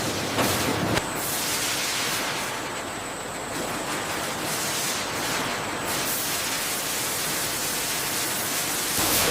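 Steady hiss of running bakery production machinery, with a couple of sharp clicks about half a second and a second in.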